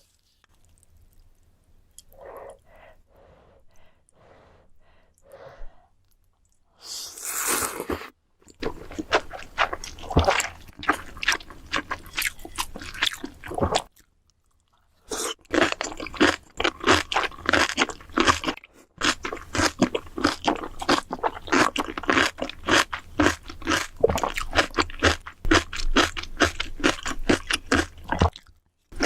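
Close-miked crunchy chewing: a person eating crunchy food with the mouth close to the microphone, many crunches a second. It starts with a few soft chews, then a short noisy burst about seven seconds in, then two long runs of loud crunching separated by a brief pause about halfway.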